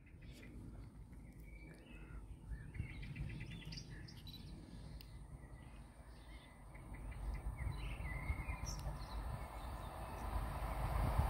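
Small birds chirping over a low rumble, which grows louder in the last few seconds as a diesel multiple unit approaches along the line.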